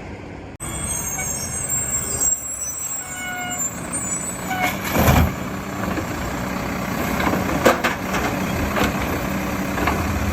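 Mack garbage truck's diesel engine running, with a few knocks and bangs from the collection work, the loudest about five seconds in.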